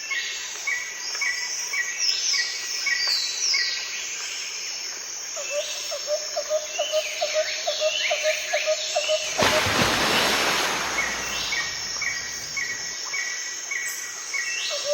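Birds calling: a steady series of short, evenly repeated chirps, about three a second, mixed with higher sweeping whistles and a quick run of lower pulsing notes, with a brief rush of hiss-like noise about nine and a half seconds in.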